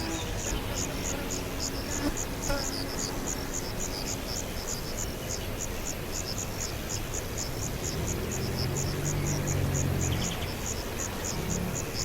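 Insect, cricket-like, chirping in a steady high-pitched rhythm of about four short chirps a second, with a faint low hum from about eight to ten seconds in.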